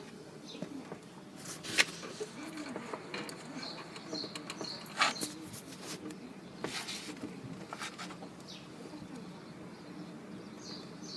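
Birds calling, with short high chirps and low cooing calls. A few sharp clicks or knocks sound over them, the loudest about two seconds and five seconds in.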